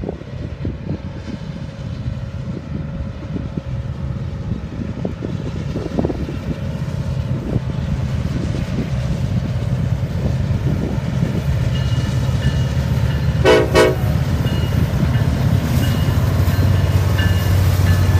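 Norfolk Southern diesel locomotives approaching, their low engine rumble growing steadily louder; about thirteen and a half seconds in, the air horn sounds two short blasts in quick succession.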